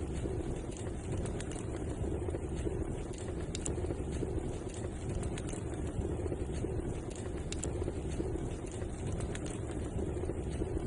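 Wood fire burning in a fireplace: a steady low rushing roar of the flames with scattered sharp crackles and pops every second or so.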